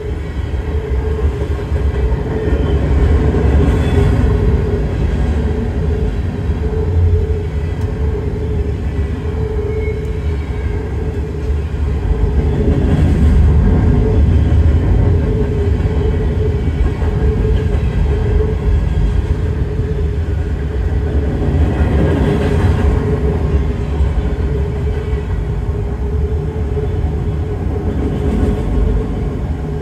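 Freight cars of a long mixed train rolling past: tank cars and gondolas, then autorack cars. Steel wheels on rail make a steady rumble with a constant hum, swelling briefly a few times as cars pass.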